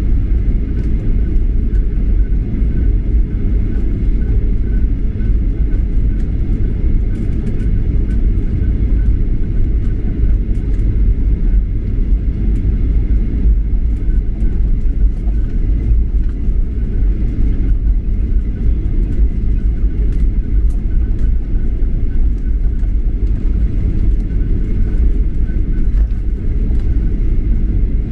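Steady low cabin rumble of an airliner in flight, with a faint steady high tone above it.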